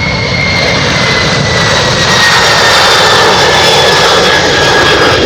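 Cargolux Boeing 747-400 freighter's four jet engines at takeoff thrust as it climbs away just after rotation: a loud roar that builds toward the middle, with a high whine that slowly falls in pitch as the jet passes.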